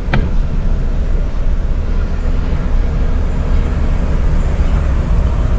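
Volvo semi truck's diesel engine idling, a steady low rumble heard from inside the cab, with a single click just after the start.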